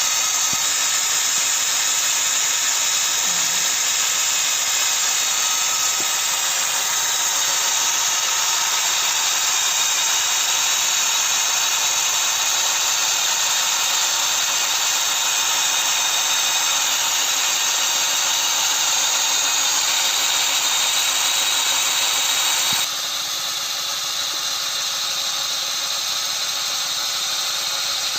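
Steady high-pitched whine of the small electric motors driving a home-built scale-model Kubota DC-93 combine harvester as it cuts rice. About 23 seconds in, the sound shifts and drops a little in level.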